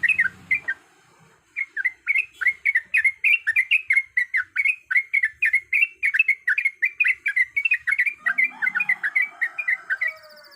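Yellow-vented bulbul (trucukan) singing a long run of quick, bubbly chattering notes, several a second, after a short break about a second in. A brief lower call lies under the song about eight seconds in.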